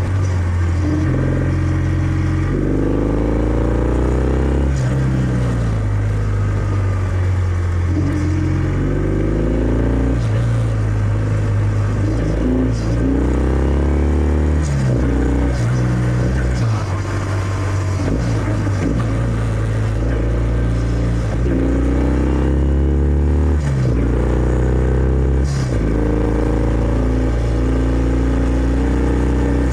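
Kawasaki W650's air-cooled parallel-twin engine running through its stock exhaust while riding. The pitch climbs under acceleration and drops back at each gear change, several times over.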